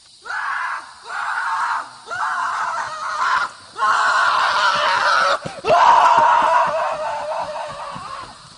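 A series of about five loud screams with short gaps between them, the last one long and trailing off near the end.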